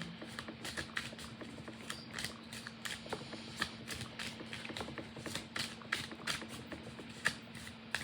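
Tarot cards being shuffled by hand: a run of quick, irregular clicks and flicks of card stock, over a steady low hum.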